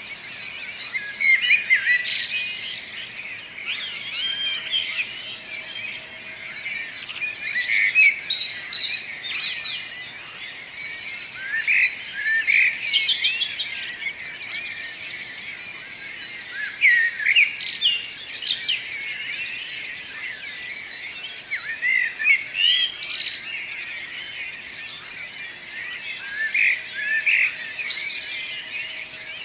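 Songbirds singing in a morning dawn chorus: several birds with overlapping, rapid, twittering song phrases. Louder phrases come every few seconds over a steady background of softer chirps.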